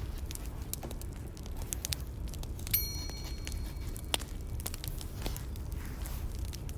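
Bonfire crackling: a steady low rumble with frequent sharp pops and snaps. About three seconds in, the loudest snap comes with a brief high ringing tone.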